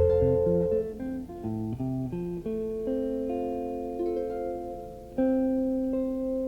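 Background music of plucked guitar: single notes and chords that ring and fade, with a new chord struck about five seconds in.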